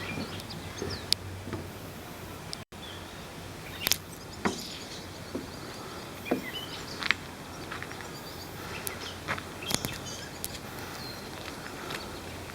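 Outdoor background noise with occasional short bird chirps and scattered sharp clicks or knocks, the loudest about four seconds in.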